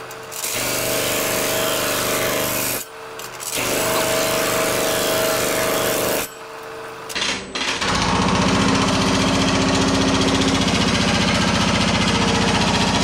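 A Pullmax reciprocating sheet-metal machine working a steel patch panel. It runs in two short spells with brief stops, then runs steadily with a fast, even chatter from about eight seconds in.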